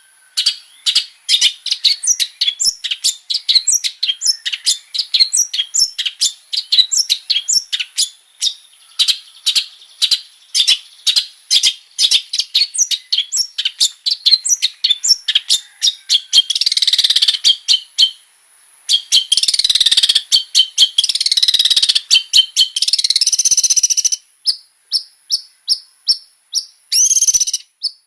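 Long-tailed shrike (cendet) singing a lively, varied song of rapid repeated chirps, several a second. About two-thirds of the way through it breaks into two longer harsh, rasping stretches, then returns to short, evenly spaced notes.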